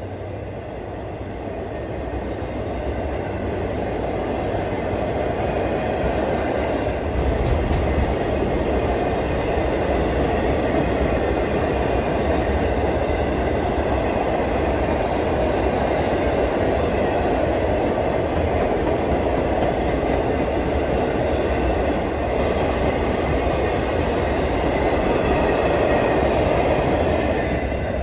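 Train passing close by: a steady rumble of rolling railcars on the rails that builds over the first several seconds and then holds.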